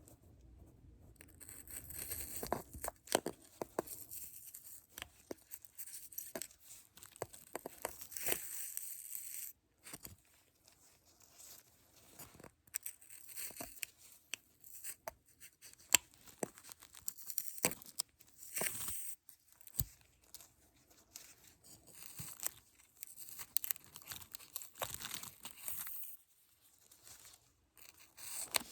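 Close-up crinkling and rustling of a thin material such as plastic or paper, handled in irregular spells and broken by many sharp clicks and light taps.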